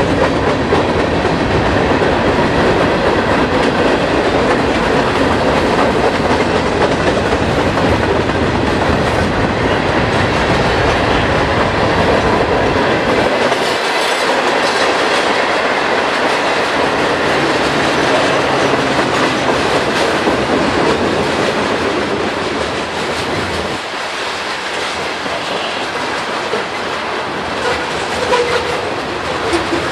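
Freight train cars passing close by: a steady, loud rumble of steel wheels rolling on the rails. The deep part of the rumble thins out about halfway through, and the sound eases a little near the end.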